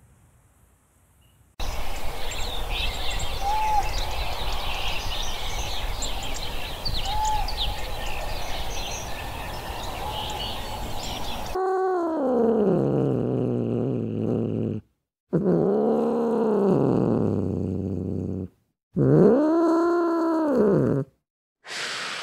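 Asian golden cat giving three long calls, each lasting two to three seconds and rising then falling in pitch, in the second half. Before them, a loud steady hiss-like noise with a few short high chirps.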